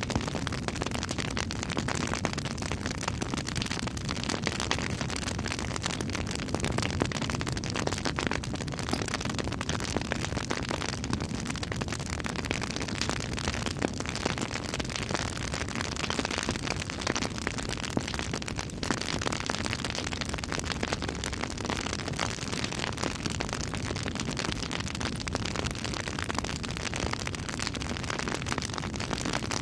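Campfire crackling steadily, with many small sharp pops over an even hiss.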